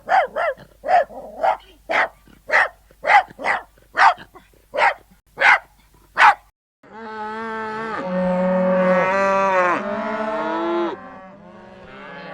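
A puppy yipping, about a dozen short high barks at roughly two a second. After a short pause about seven seconds in, a cow moos: one long low moo, then a shorter, quieter one near the end.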